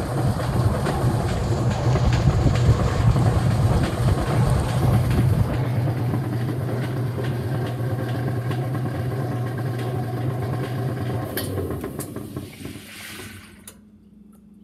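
Whirlpool WTW5300SQ0 top-load washing machine running loudly, with a steady motor hum under rattling mechanical noise. About eleven seconds in the motor cuts out and the machine winds down to quiet as the timer is turned to off.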